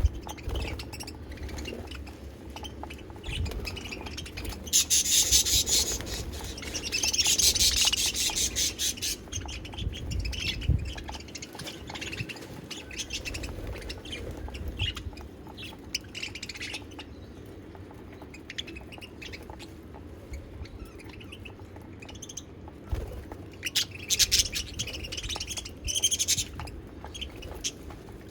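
Budgerigars chirping and warbling in rapid high bursts, loudest about five to nine seconds in and again near the end, with quieter chatter between.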